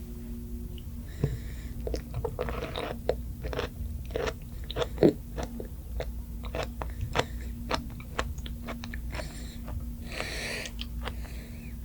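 Mouth sounds of a person biting and chewing soft, wet food, with many short sharp smacks and clicks throughout.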